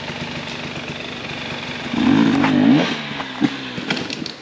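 Beta 300 RR two-stroke dirt bike engine running, with a loud, wavering burst of revving about two seconds in that lasts under a second, then drops back. A few sharp knocks come near the end.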